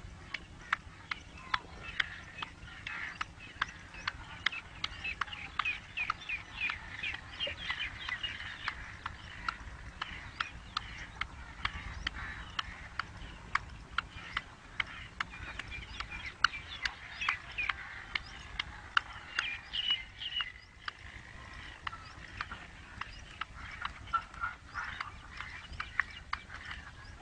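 Black francolin calling in repeated harsh, chirping phrases, with many sharp clicks scattered throughout.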